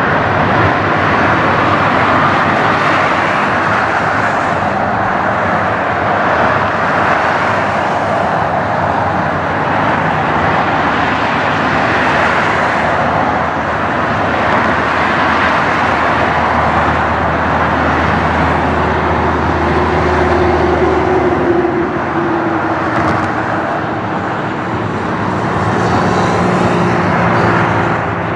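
Steady loud rushing roar of a Boeing 737-800 jet airliner's CFM56 turbofan engines, with a low hum that swells and fades about two-thirds of the way through.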